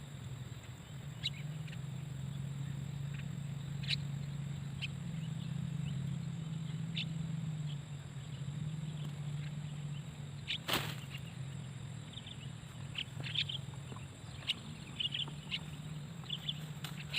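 Scattered short, high bird chirps, coming more often in the last few seconds, over a steady low hum, with one sharp click about eleven seconds in.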